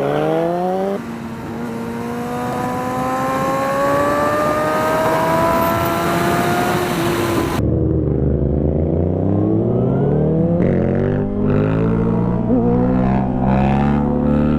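Motorcycle engine accelerating, its pitch climbing, dropping at a shift about a second in, then rising slowly for several seconds over wind hiss. About seven and a half seconds in the sound changes abruptly to a steadier, lower engine note without the hiss.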